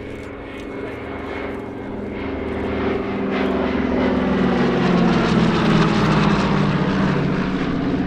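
Douglas Dakota (C-47) transport's twin radial piston engines and propellers passing overhead. The drone grows louder to a peak about five to six seconds in, then its pitch drops slightly as the aircraft goes by.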